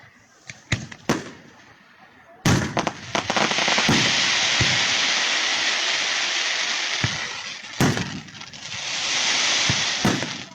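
Fireworks display: a few scattered bangs, then a loud burst followed by several seconds of dense crackling, another bang, and a second swell of crackling.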